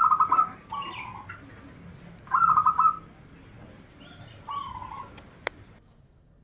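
Zebra dove (perkutut) cooing: two loud bursts of rapid staccato coos, about two seconds apart, with fainter coos between and after them. A sharp click sounds near the end.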